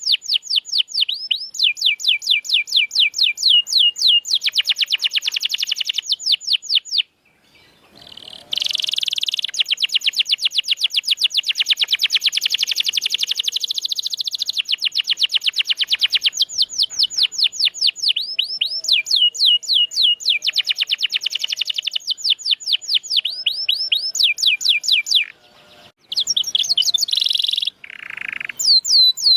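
Domestic canary singing long rolling trills of rapid, evenly repeated high notes, about ten a second, with the phrases changing in pitch. The song breaks off briefly twice, and a lower, harsher note sounds near the end.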